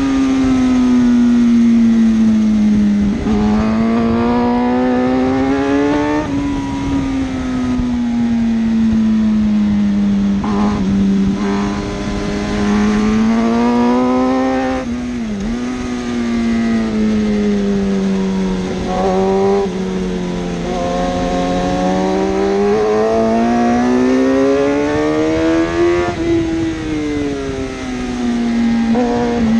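Superbike engine at race speed, its pitch climbing slowly under acceleration and then dropping sharply at each gear change, several times over.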